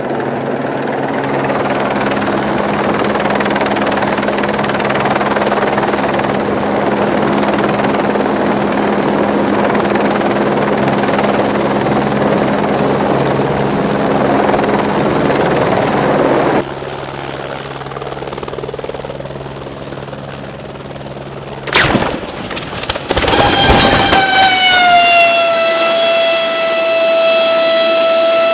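Aircraft engine noise, steady with a low hum, that cuts off abruptly a little past halfway. Some seconds later comes a sudden loud disturbance, followed by a loud, steady horn- or siren-like tone that dips slightly in pitch and then holds.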